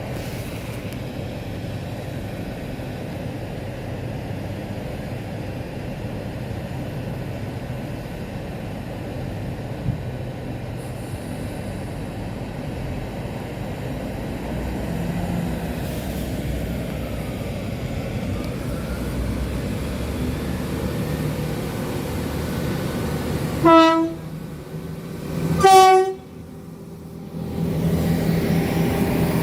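Steady rumble of trains at a station platform, broken about 24 seconds in by a train horn giving two short blasts, the first on a lower note and the second on a higher one. A train's engine rumble grows louder near the end.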